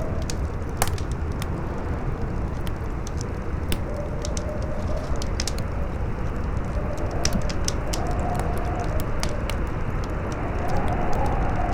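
Campfire crackling with scattered sharp pops over a steady rumble of strong wind, and a faint howl in the wind that wavers in pitch and swells near the end.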